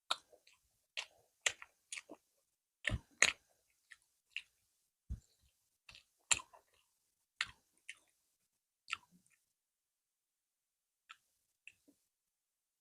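Close-up eating sounds: chewing roti, with short wet mouth clicks and smacks at irregular intervals. They come thick for about nine seconds, then thin out to a few.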